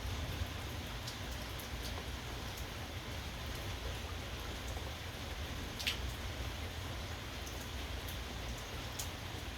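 Steady rainfall, with separate drops now and then ticking louder on a surface, over a low steady rumble.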